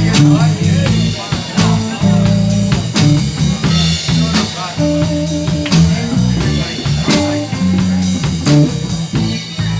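Live blues band playing: guitar over held bass notes and a drum kit keeping a steady beat.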